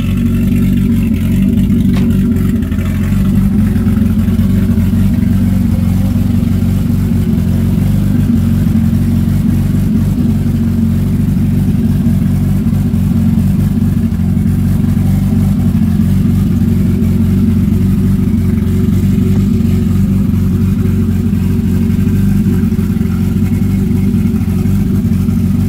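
Nissan Maxima's swapped VQ35DE V6 running steadily at idle, the car in the state its owners call having 'got angry', which they later traced to an O2 sensor issue.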